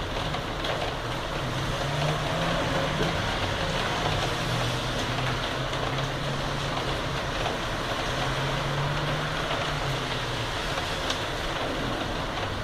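Heavy rain falling steadily, with the low, steady hum of a motor vehicle's engine running through it.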